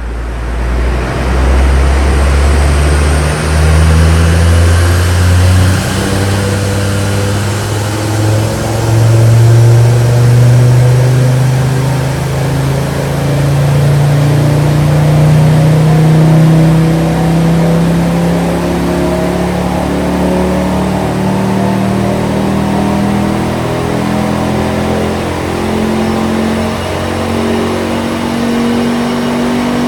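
Ford Focus ST's tuned turbocharged engine running loud under load on a rolling-road dyno, its revs climbing slowly and steadily through a long pull.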